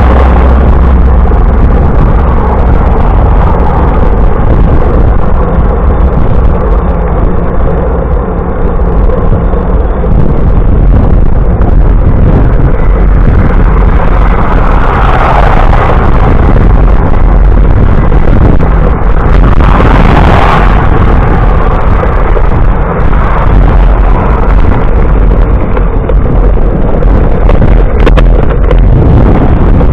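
Wind buffeting a camera microphone while riding a bicycle: a loud, steady rumbling roar, swelling briefly twice midway.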